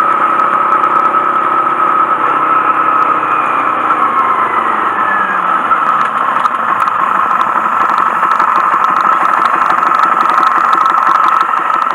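Honda Monkey 125's single-cylinder engine running steadily, its pitch falling for a couple of seconds about three to five seconds in, then holding steady.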